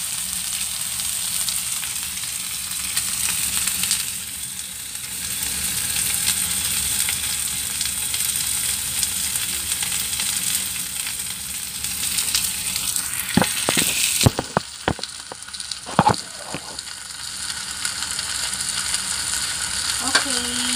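Chicken wings frying in oil in a nonstick pan, a steady sizzle, with a few sharp clicks a little past the middle.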